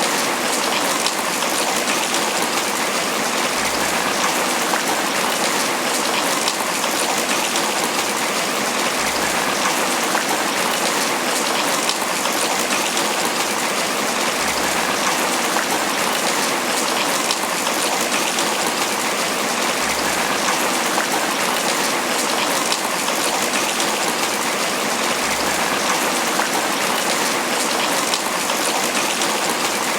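Steady tropical rain falling on banana leaves.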